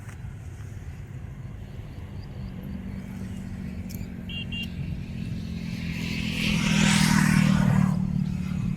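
A road vehicle's engine running steadily and growing louder, loudest with a rush of tyre hiss as it passes close about six to eight seconds in. Two short high beeps sound about four and a half seconds in.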